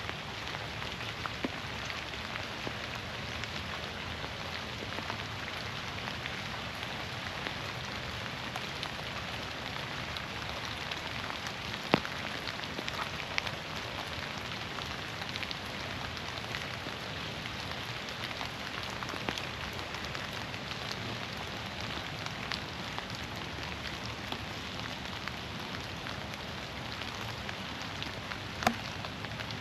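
Steady rain falling through the forest, an even hiss of drops, with scattered sharper drip ticks; the loudest comes about twelve seconds in and another near the end.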